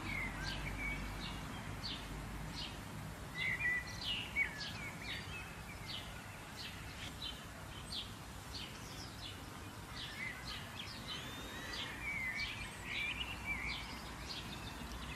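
Small birds chirping: many short, high chirps, a couple a second, with now and then a brief warbling call, over a faint steady background hiss.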